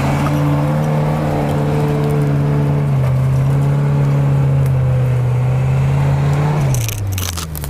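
An off-road SUV's engine held at high, steady revs under load for several seconds, then the revs drop away near the end. A few sharp cracks follow as the revs fall.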